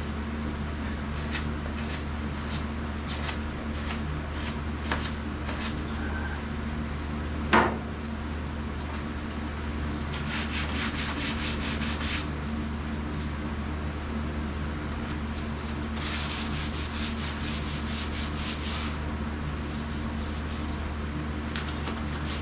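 Hand sanding a painted car hood with sandpaper: scattered single strokes, then two spells of quick, even back-and-forth strokes at about five a second in the second half. A sharp knock about seven seconds in, over a steady low hum.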